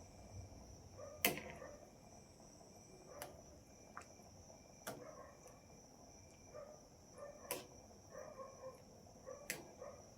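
Crickets chirring steadily in a high, even tone, with a few sharp clicks or knocks every second or two.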